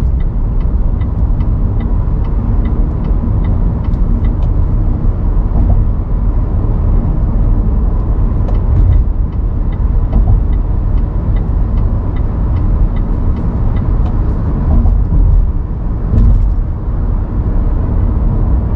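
A car driving on a city road: steady low engine and road rumble, with a faint regular ticking about twice a second through much of it.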